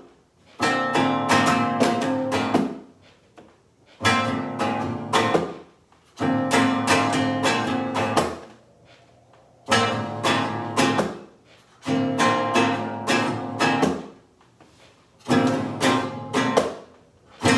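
Acoustic guitar strummed in short runs of chords, about six runs with brief pauses between them.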